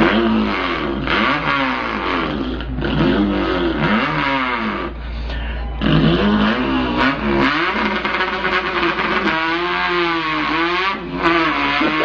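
A man imitating an import car's engine with his voice: revving noises that sweep up and down in pitch over and over, with a short break about five seconds in.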